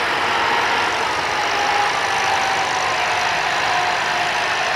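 Antique tractor engine running steadily, a continuous mechanical drone with a faint tone that sinks slightly in pitch midway.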